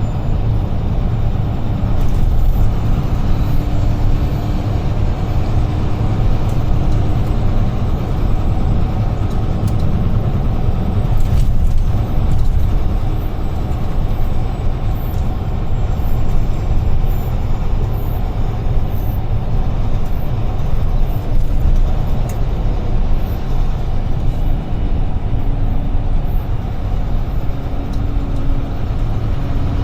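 Steady low rumble of a UD Trucks Quon heavy truck's diesel engine and tyres at road speed, heard from the cab.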